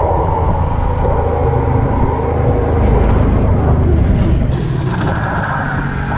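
125cc pit bike running with its rear wheel locked by the back brake, the tyre sliding a long way on a wet, slippery road.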